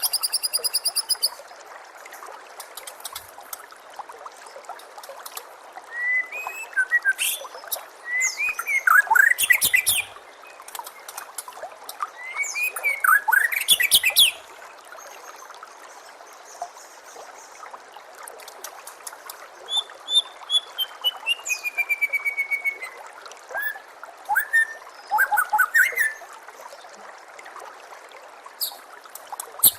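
White-rumped shama (murai batu) singing in separate loud phrases of sliding whistles and rapid trills, one phrase a falling run of notes, with pauses of several seconds between them. Under the song runs a steady trickle of water.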